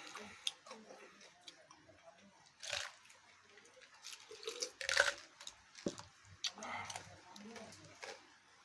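Eating sounds: chewing and crunching food, with scattered clicks and two louder crunchy bursts, mixed with a little talk.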